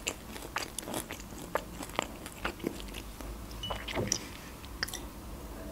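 Close-miked chewing of a mouthful of Turkish pide, a meat-and-cheese flatbread: a run of small irregular mouth clicks.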